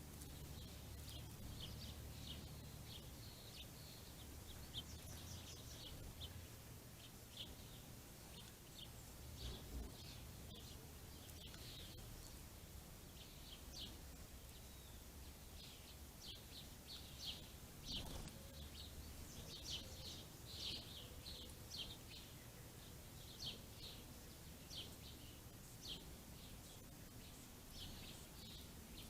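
Small birds chirping: many short, faint chirps, irregular and scattered, busiest about two-thirds of the way in, over a low steady hum.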